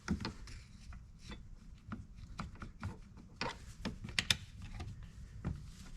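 Irregular small clicks and taps of hand tools against metal chainsaw parts, with a quicker run of sharper clicks about three and a half seconds in.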